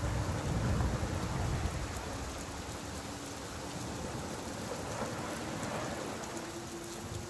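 Steady rain falling, with a low rumble in the first two seconds that then eases off.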